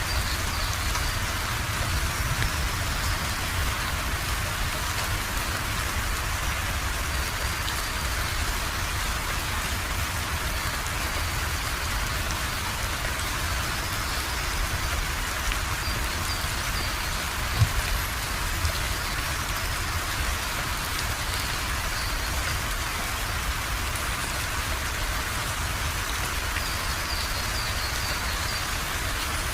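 Steady rain falling, an even hiss with a low rumble beneath it. One louder drop or tap lands about two-thirds of the way through.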